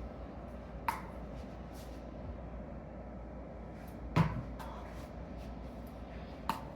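Three sharp knocks about a second in, a little after four seconds (the loudest, with a dull thud under it) and near the end, over a steady low hum.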